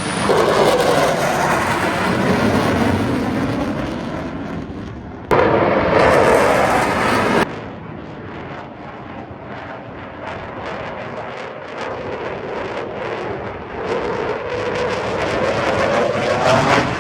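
Military jet flying past at an air show: a loud roar whose pitch sweeps as it passes. The sound jumps abruptly louder about five seconds in and drops again about two seconds later.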